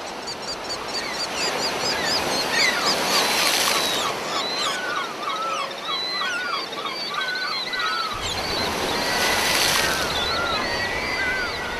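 Seagulls screeching in a long series of repeated calls over steady surf, with waves surging louder twice, about three and a half and nine and a half seconds in.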